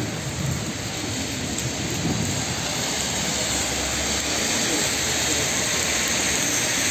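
Heavy rain pouring onto a wet street, a steady hiss that grows a little louder. A car drives through on the wet road about midway, adding a low rumble.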